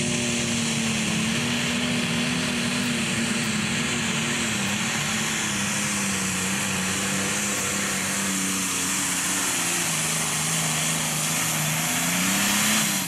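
Pro stock pulling tractor's turbocharged diesel engine running flat out under load during a pull. The engine note sinks slowly, climbs briefly near the end, then drops away as the throttle comes off at the end of the pass.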